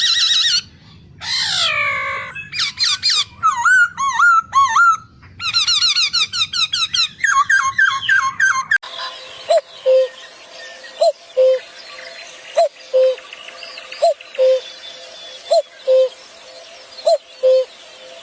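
Birds calling in a string of short, spliced recordings: harsh and descending calls, then slurred whistles and fast repeated notes. After that, a low two-note call repeats steadily about every second and a half.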